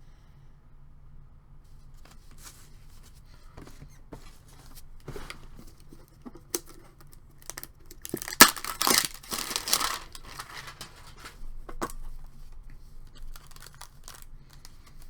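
A trading card pack wrapper being torn open by hand, with crinkling and small handling clicks. The loudest tearing comes about eight to ten seconds in.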